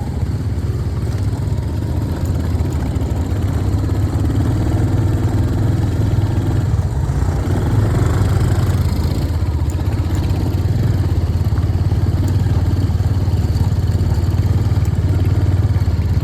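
Royal Enfield Hunter 350's single-cylinder engine running steadily, with no clear revving up or down.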